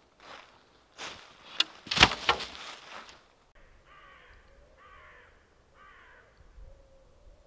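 Close rustling and knocking, loudest about two seconds in, then a crow cawing three times, about a second apart.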